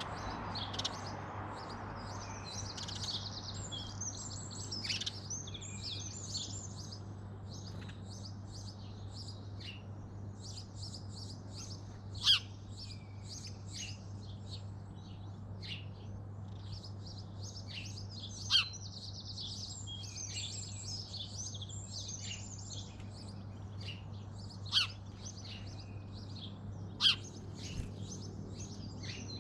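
Garden birds chirping and singing, with a near-continuous run of high twittering notes. Louder sharp single calls stand out four times, spaced several seconds apart. A steady low hum runs underneath.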